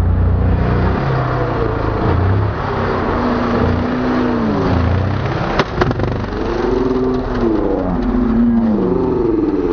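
Dirt bike engines revving up and easing off, the pitch rising and falling several times, with a sharp knock about halfway through.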